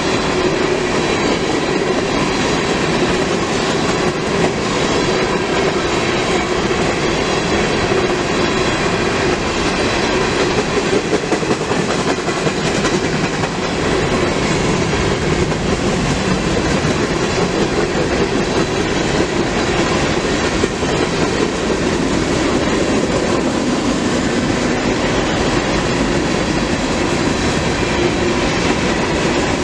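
Freight train cars rolling steadily past, wheels clattering over the rail joints.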